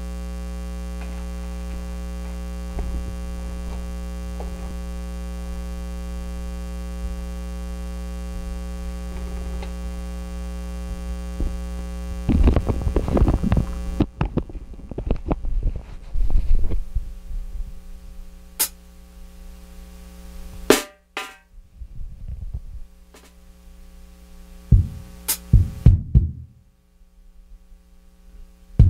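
Steady electrical mains hum from the sound equipment. About twelve seconds in come scattered, irregular drum hits and knocks, then a few sharp clicks, with no steady beat.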